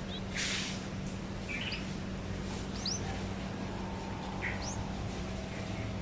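A small bird giving short, high, quick chirps, about five spread over a few seconds. There is a brief hissing rustle about half a second in, and a steady low hum underneath.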